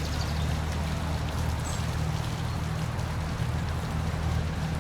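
Steady rush of falling water from a park waterfall: a deep rumble under an even hiss.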